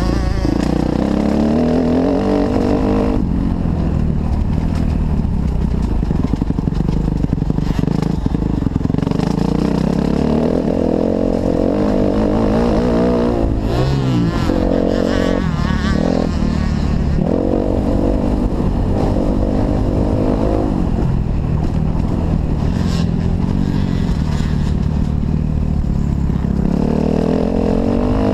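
Kawasaki KX250F motocross bike's single-cylinder four-stroke engine running hard around the track, its pitch climbing and dropping over and over as the throttle is opened and closed, over a steady low rumble.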